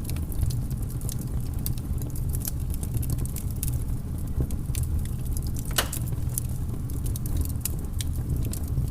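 Wood fire crackling: irregular sharp pops and snaps, one louder pop about six seconds in, over a steady low rumble.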